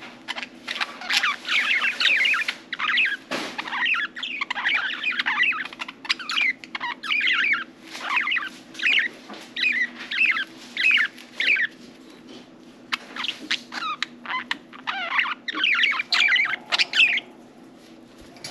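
Budgerigars chattering in quick, warbling runs of chirps, with a short pause a little past the middle and the chirping stopping shortly before the end. A faint steady hum runs underneath.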